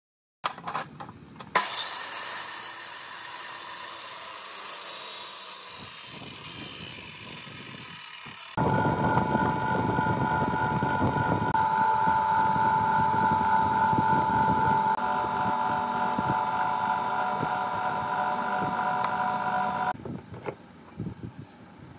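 Workshop power tools at work. A hissing, scraping tool runs for several seconds, then a motor-driven machine runs with a steady whine from about eight seconds in and stops shortly before the end.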